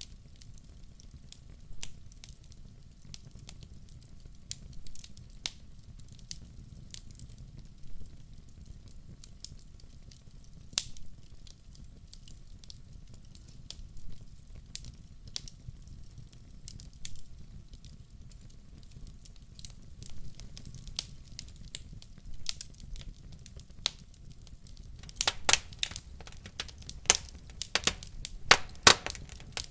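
Wood fire in a fireplace crackling, with scattered single pops over a low steady rumble. About 25 seconds in, a quick run of louder, denser crackles sets in.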